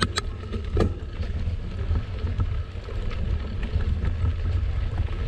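Wind buffeting the microphone of a moving mountain bike, a steady low rumble mixed with tyre noise, with a few sharp clicks or knocks near the start.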